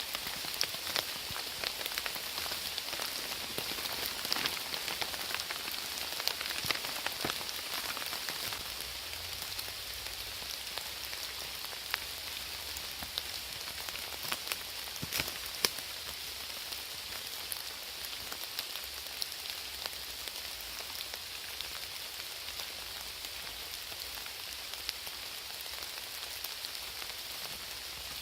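Steady rain falling, with many sharp, separate drop hits standing out from the hiss.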